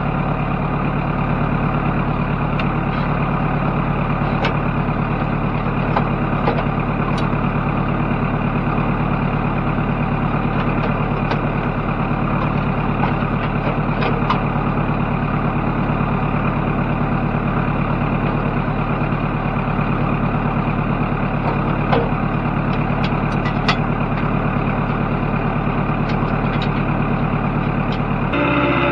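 A farm tractor's engine running steadily while plowing, with a few light clicks scattered through it.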